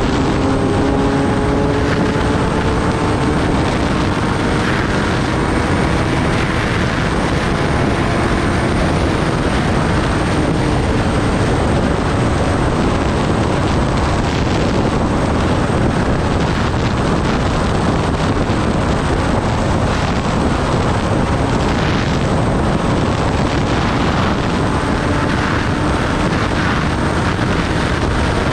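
Kawasaki Ninja ZX-10R inline-four heard on board at speed: a steady, loud rush of wind over the microphone, with the engine's note faint beneath it. The note climbs gently over the first few seconds, fades into the wind, and comes back near the end.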